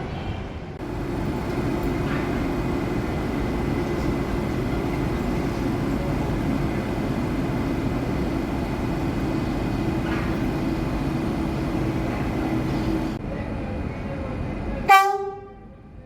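A passenger train running with a steady rumble and a hum. Near the end it sounds one short, loud horn blast.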